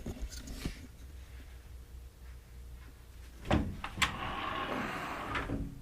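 A door being handled: a few light clicks, then a loud knock about three and a half seconds in, a sharp click, and about a second and a half of scraping and rattling as it moves.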